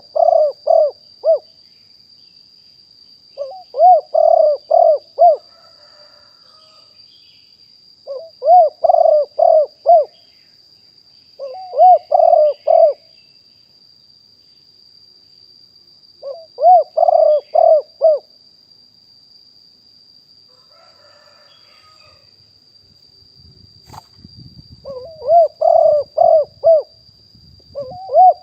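Spotted dove cooing: short phrases of about five quick, arching coos, repeated seven times a few seconds apart. A faint steady high-pitched whine runs underneath, and a low rumble comes in over the last few seconds.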